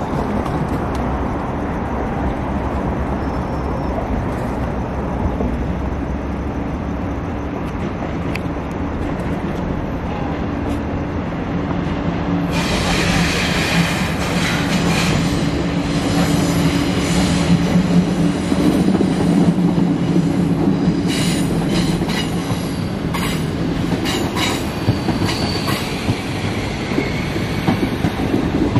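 An HXD1C electric locomotive hauling a passenger train approaches and passes. A steady low rumble with a hum builds, then about halfway in a louder rush of wheel-on-rail noise sets in, with rapid clicking as the coaches roll by.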